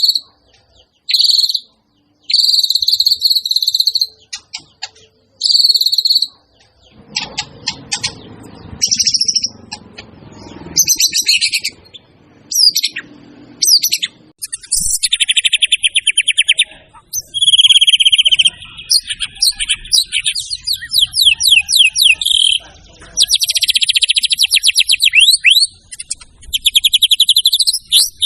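White-rumped shama singing loudly: a few separate buzzy notes at first, then varied phrases, turning about halfway through into an almost unbroken run of fast repeated notes and trills. A male in full song, showing off a varied repertoire.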